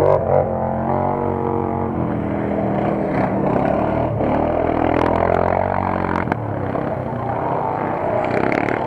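Quad-bike engines running and revving on a mud race track, their pitch rising and falling.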